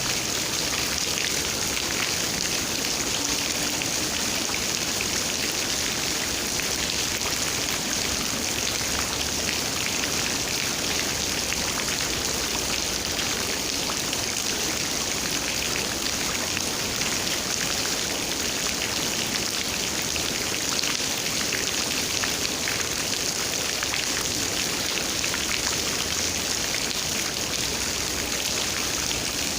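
Steady rain, a dense even patter of raindrops hitting surfaces.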